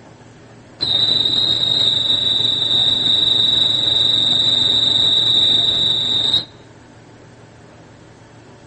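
Station departure signal: a loud, steady, high-pitched electronic tone that starts about a second in, holds for about five and a half seconds and cuts off suddenly, warning that the train's doors are about to close.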